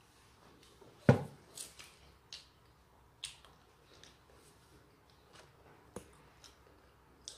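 Close-miked chewing of a soft bread roll: short wet smacks and mouth clicks, one every half second or so, with one loud thump about a second in.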